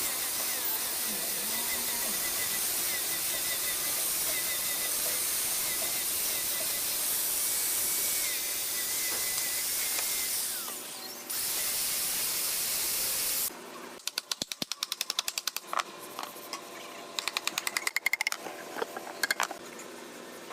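A woodworking power tool running steadily with a hissing sound, dipping briefly once. It stops abruptly about two-thirds of the way in, followed by a series of irregular clicks and taps.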